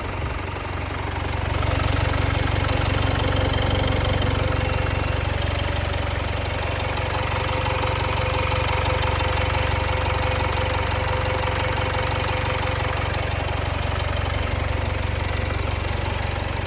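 Jaguar XE's 2.0-litre Ingenium four-cylinder diesel engine idling steadily, with a newly replaced timing chain and no chain rattle. It gets louder about a second and a half in, then holds steady.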